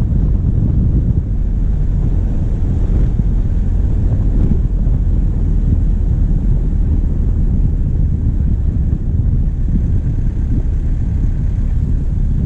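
Diesel vehicle driving on a forest track, its engine and tyres making a steady low rumble, with wind buffeting a microphone mounted on the bonnet.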